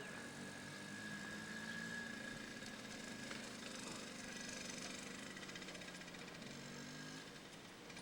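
Small dirt bike's engine running faintly, its pitch wavering slightly.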